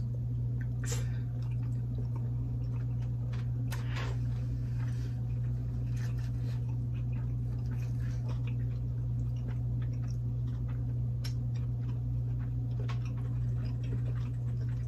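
Close-miked chewing and mouth smacking of two people eating meat, with small wet clicks scattered throughout and a few stronger ones about a second in and about four seconds in. A steady low hum runs underneath.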